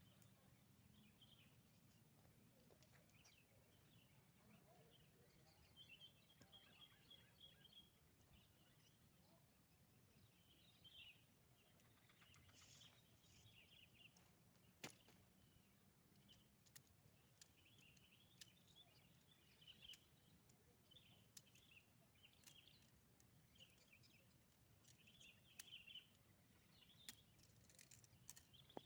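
Near silence: faint outdoor ambience with scattered high chirps and a few soft clicks.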